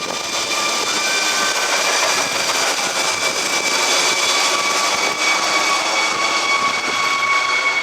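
Eurocopter EC145 helicopter's twin turbine engines and rotor running at take-off power, a steady high turbine whine over the rotor's rushing noise, growing slightly louder towards the middle.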